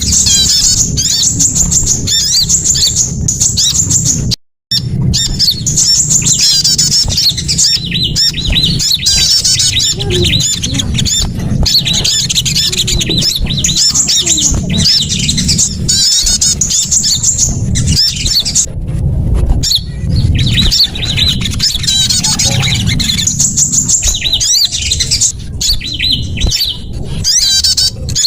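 Bird-lure recording of small songbirds: fast, high chirps and twittering calls, several overlapping, over a steady low rumble. The sound cuts out for a moment about four seconds in.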